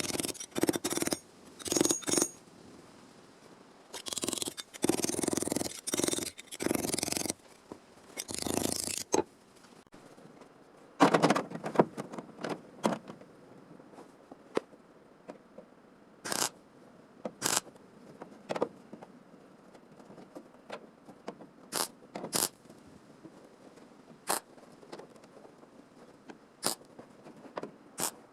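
Hand-tool scraping on car-body sheet metal: runs of strokes lasting half a second to a second each, then a pause, then more scraping, after which the sound thins to scattered sharp ticks and brief scrapes.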